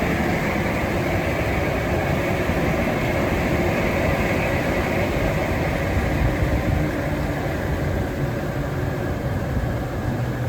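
Mapco 25 HP PVC exhaust blower with a 48-inch fan wheel running steadily at speed: a loud, even rush of air over a low rumble.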